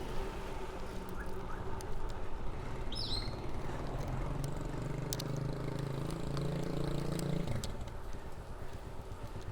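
City road traffic heard from a moving bicycle over low wind rumble. A nearby vehicle engine hums steadily and cuts off abruptly about seven and a half seconds in. A short high chirp sounds about three seconds in.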